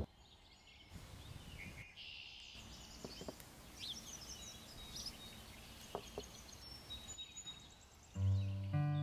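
Quiet outdoor garden ambience with faint birds chirping and a few soft taps. Acoustic guitar music starts near the end, with plucked notes.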